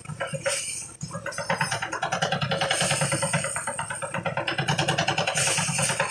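Engine-driven rice thresher running, a fast, even rattle over a low engine hum that sets in about a second in.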